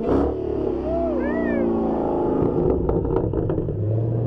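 A loud engine revving: its pitch swings up and back down about a second in, then it runs on steadily, with a few sharp pops around three seconds in.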